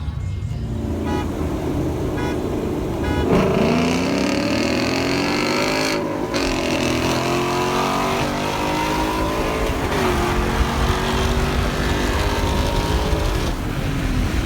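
Car engine accelerating hard, its pitch climbing and dropping back twice, like gear shifts under full throttle.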